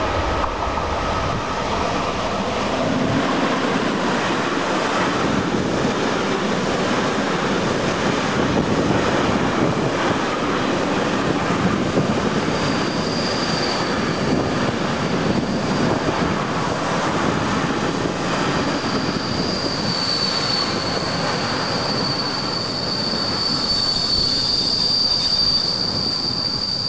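A long train running through the station with a steady rumble and wheel clatter. A high wheel squeal comes in about halfway and grows louder near the end.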